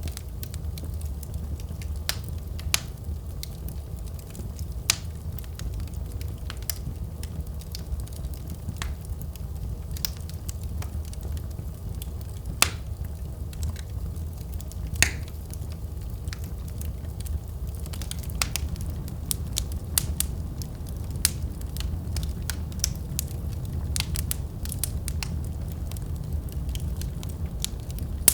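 Wood fire in a fireplace crackling: scattered sharp pops over a steady low rumble, with a couple of louder pops near the middle and the crackling growing busier in the second half.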